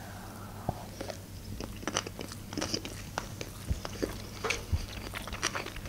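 Close-up chewing of a sushi roll: wet mouth clicks and small crunches in an irregular run.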